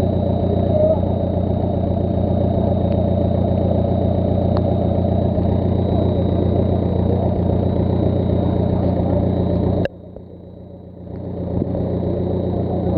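An off-road vehicle's engine running steadily. The sound drops away abruptly about ten seconds in and builds back over the next two seconds.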